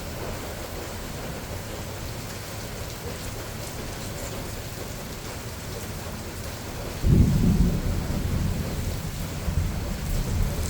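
Thunderstorm: steady rain falling, then about seven seconds in a sudden loud clap of thunder that rolls on as a rumble.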